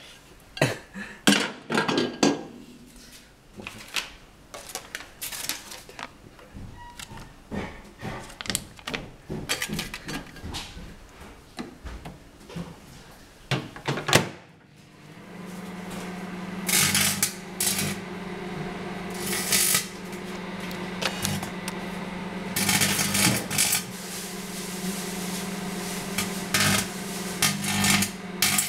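Irregular clicks and handling knocks, then a microwave oven starts with a steady hum about halfway through. Over the hum, laminated aluminium foil inside crackles and snaps in loud bursts of sparking every few seconds.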